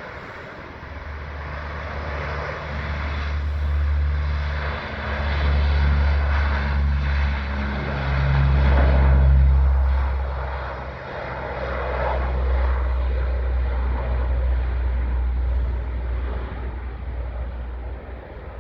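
Propeller aircraft engines running loud and steady, swelling to a peak about nine seconds in and then easing off, with wind buffeting the microphone.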